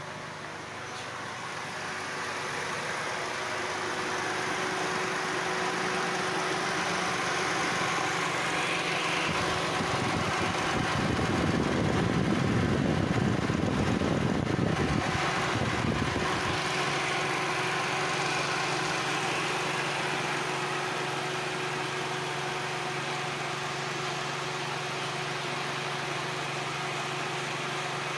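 Datsun Go+'s 1.2-litre three-cylinder petrol engine running at idle. From about ten to sixteen seconds in it turns louder and rougher, then settles back to a steady idle.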